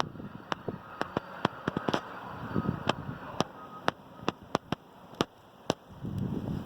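Wind buffeting the microphone, with low rumbling gusts about two and a half seconds in and again near the end, and irregular sharp clicks and crackles throughout.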